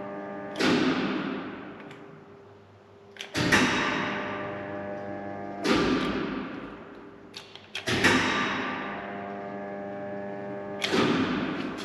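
Elevator car door-drive induction motor humming steadily during car travel, with several steady tones. The hum comes from current flowing through one motor winding, fed from the L35 phase that is live while the car moves, to neutral; the uploader says this also heats the motor. Loud thumps break in about every two to three seconds, five in all, each followed by a fading rush of noise.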